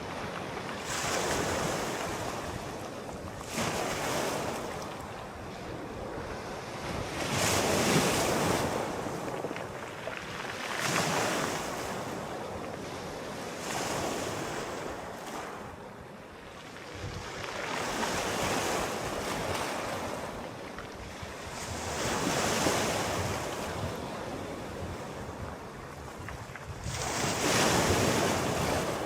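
Sea waves breaking and washing up the shore, one surge every three to four seconds, each swelling and then fading into a steady hiss of surf.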